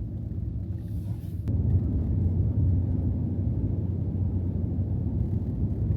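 Ram TRX pickup's supercharged 6.2-litre V8 and tyres on snow, heard from inside the cab as a steady low rumble. It grows louder about a second and a half in.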